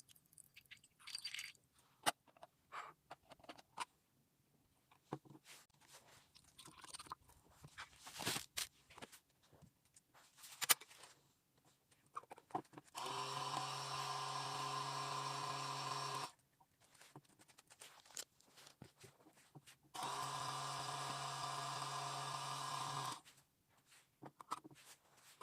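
Small battery motor of a toy washing machine running twice, each time a steady buzz lasting about three seconds that stops abruptly. Before it come scattered plastic clicks and taps from the toy being handled.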